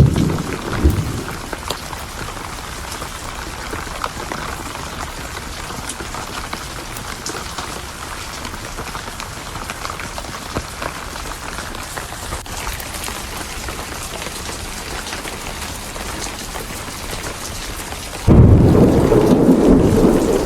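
Thunderstorm: a roll of thunder dies away in the first second or two, leaving steady rain with scattered light crackles of a fire. Near the end a loud, deep thunder rumble starts suddenly.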